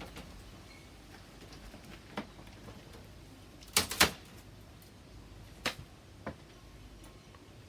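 A few separate sharp knocks: one about two seconds in, two loud ones in quick succession about four seconds in, then two more near the end.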